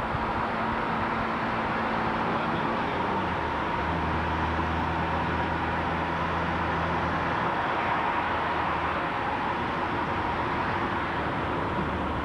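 Car engine and road noise heard from inside the moving car: a steady rumble with a low engine hum that changes pitch about three to four seconds in.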